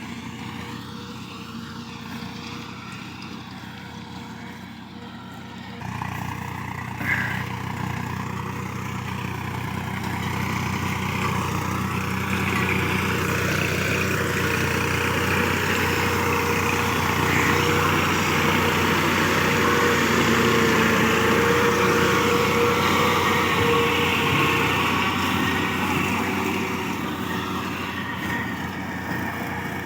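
Tractor engine running steadily under load. It gets louder about six seconds in, stays loud through the middle with a broad rushing noise over the engine note, then eases off near the end.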